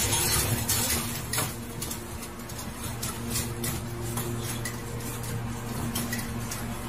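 Metal food bowl clattering and scraping against a wire cage floor as an animal paws and pushes it: a run of sharp clinks and knocks over a steady low hum.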